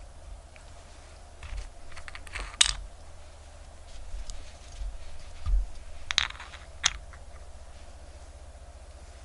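Scattered small sharp clicks and taps of tools and parts being handled while a quartz watch is worked on, the loudest click about two and a half seconds in and a few more around six to seven seconds, over a steady low hum.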